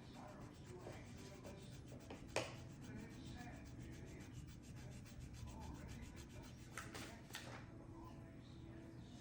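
Faint rubbing and handling noises from work on plastic model-kit parts, with one sharp click about two and a half seconds in and a few lighter clicks later on, over a low steady hum.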